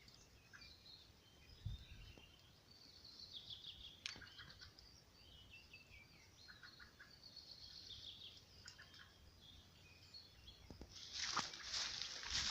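Small birds chirping and twittering faintly in high, quick calls. About eleven seconds in, close crunching footsteps start and grow louder.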